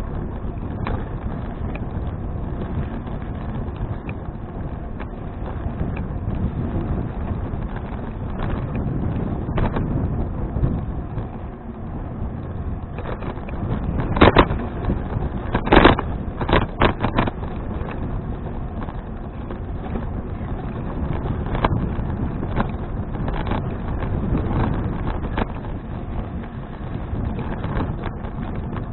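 Wind buffeting an action camera's microphone while riding a bicycle, a steady low rumble. A brief cluster of sharp knocks and rattles comes about halfway through.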